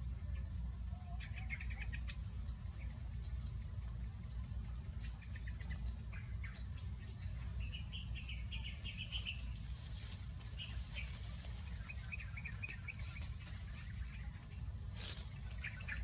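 Small songbirds chirping in short, scattered twittering bursts over a steady high whine and a low hum, with one short sharp rustling noise near the end.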